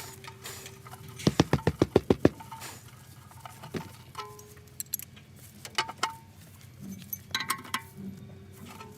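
A quick run of about ten sharp knocks just over a second in, then scattered light metallic clinks and taps with brief ringing, from tools and parts being handled during excavator filter work.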